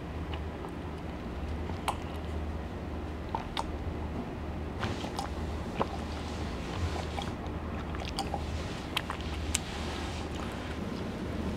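Close mouth sounds of a person eating and drinking, chewing and sipping, picked up on a clip-on microphone, with scattered small clicks over a steady low hum.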